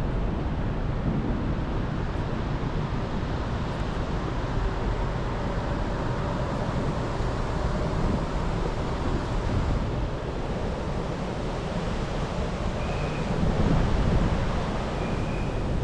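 Strong wind buffeting the microphone: a steady low rumble of wind noise.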